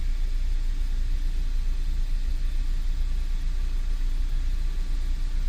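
Steady low road and drivetrain rumble inside the cabin of a 2013 Cadillac CTS cruising at about 43 mph, during a test for a driveshaft vibration at 40 to 45 mph.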